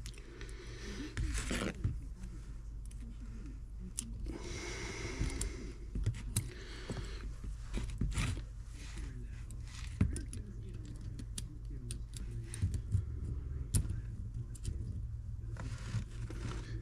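Small metal tools and parts clicking, tapping and scraping in scattered knocks over a steady low hum.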